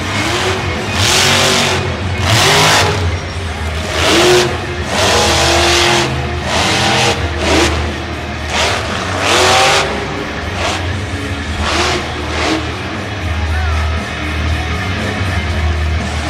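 Monster truck engine revving hard in a string of short bursts, its pitch swooping up and down with each one; the bursts die down near the end. Music with a steady bass runs underneath.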